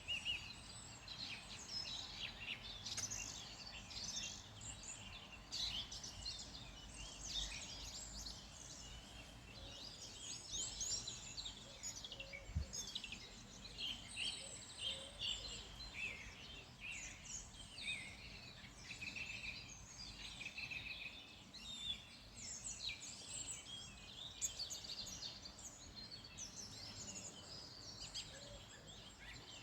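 A dawn-chorus-like mix of small songbirds chirping and singing, many short overlapping calls and trills, over a low steady rumble.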